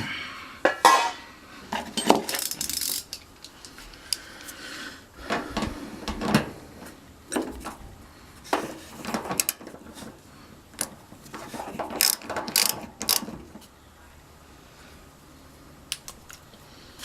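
Ratchet wrench with a socket clicking in short runs with pauses, as fittings on a gas water heater's burner assembly are turned.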